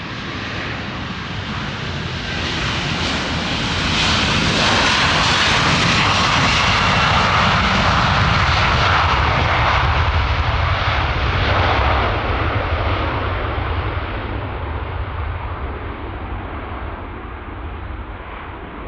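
Large jet airliner departing at takeoff power: the engine noise builds over the first few seconds, is loudest for about eight seconds as the aircraft passes, then fades as it climbs away.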